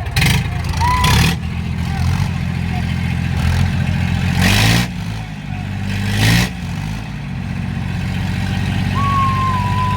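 Diesel tractor engines labouring at full throttle under heavy load, pulling against each other in a tractor tug-of-war, with the engine note surging and rising in pitch several times, notably about four and a half and six seconds in.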